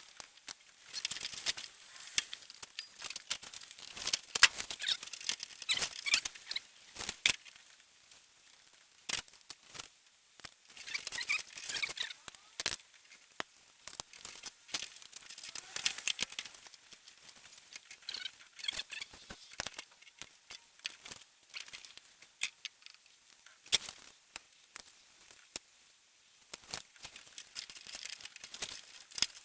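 Hand work on engine parts: irregular sharp clicks and taps of metal tools, with bursts of high, gritty scraping and squeaking.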